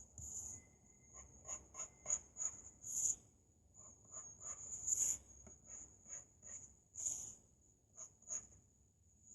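Drawing strokes on paper: a run of short, quick scratching strokes, about three a second, with a few longer, louder strokes among them.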